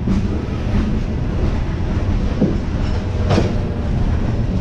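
Freight train of wood-chip hopper cars rolling past close by: a steady rumble of wheels on the rails with clickety-clack over the rail joints, and a brief screech about three seconds in.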